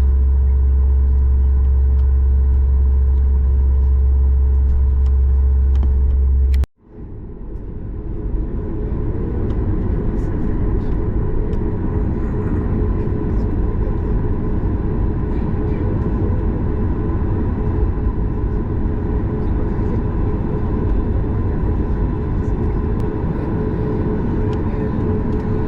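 Steady cabin noise of a Boeing 737 MAX 8 on the ground before takeoff: a low hum from the CFM LEAP-1B engines and cabin air, with a steady tone through it. About seven seconds in the sound cuts off abruptly, then a similar steady rumble fades back up over a few seconds and holds.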